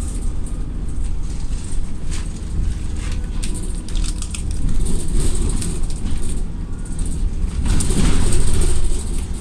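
Double-decker bus on the move, heard from inside on the upper deck: a steady low engine and road rumble with scattered knocks and rattles. It grows louder for a stretch near the end.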